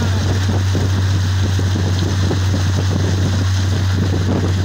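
An engine running steadily with a constant low hum, and wind noise on the microphone.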